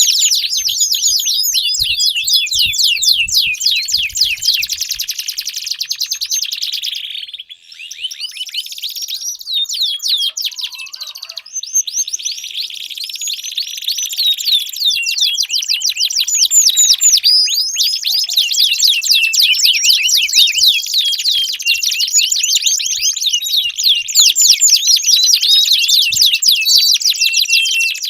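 Domestic canary singing long, fast trills and rolling phrases, high-pitched and nearly unbroken, with a brief pause about seven seconds in.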